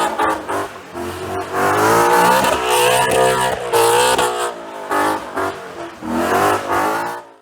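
Ford Mustang engine revving hard, its pitch rising and falling again and again, with tyre noise underneath; the sound cuts off abruptly near the end.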